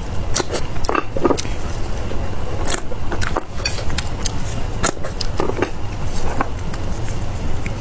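Close-up eating sounds: irregular crisp bites and crunchy chewing of fried food, over a steady low rumble.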